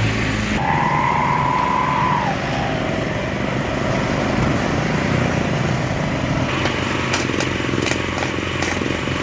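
An engine running steadily, with a brief whine that falls away about two seconds in and a series of clicks and knocks in the last few seconds.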